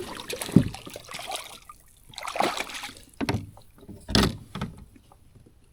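Knocks and splashes from a kayak and its gear on the water, about four short bumps a second or so apart.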